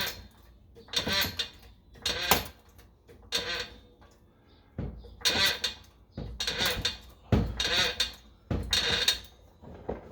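Exhaust pipe being forced into place under a car, giving about seven jerky bursts of metal scraping and rattling against the underbody, roughly one a second with a short pause midway. It ends with the pipe jammed fast.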